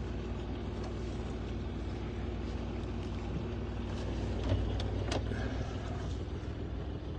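A sailboat's engine running steadily at low speed while manoeuvring, with a few faint clicks about four to five seconds in.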